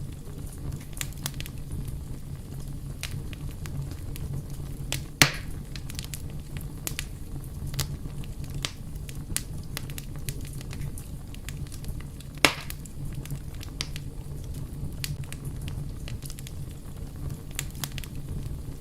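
Fire crackling: a steady low rumble of burning with many scattered sharp crackles, and two louder pops, about five and twelve seconds in.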